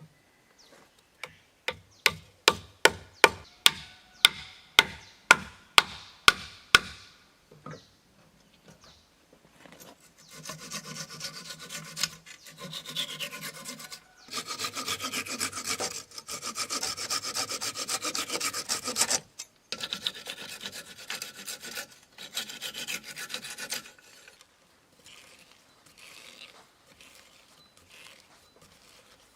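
A run of about a dozen sharp, evenly spaced blows on wood, then a hand saw rasping through wood in several long stretches with short pauses.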